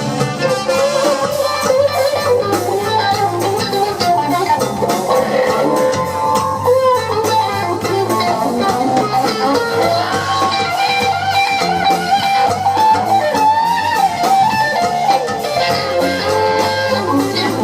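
Live band playing an instrumental break with no vocals: a lead guitar line winding over bass and drums.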